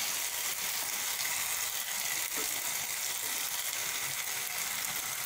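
Kochur loti (taro stolons) sizzling steadily as they fry down nearly dry in the last stage of cooking, with a wooden spatula stirring and scraping through them in the pan.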